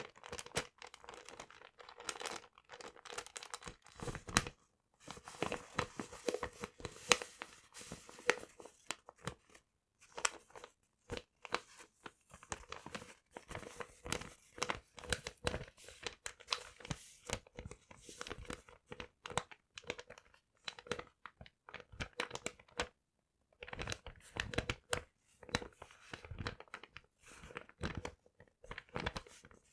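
Paper being crumpled, crinkled and torn close to the microphone, dense irregular crackling with short pauses about four, ten and twenty-three seconds in. A faint steady hum sits underneath.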